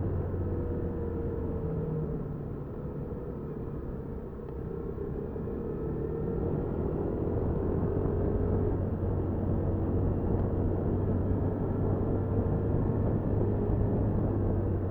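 Honda Super Cub 50's small single-cylinder engine running under way, mixed with road and wind noise, getting gradually louder from about four seconds in.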